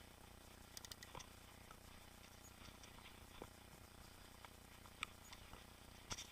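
Faint scattered clicks and ticks from a mountain bike being ridden, with a small cluster about a second in and another near the end.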